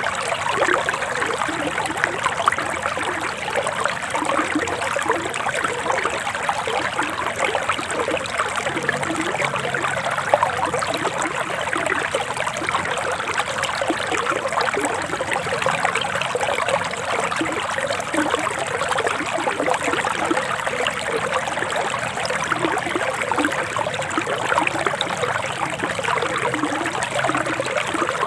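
Forest stream flowing steadily, an even rush of running water flecked with small trickling splashes.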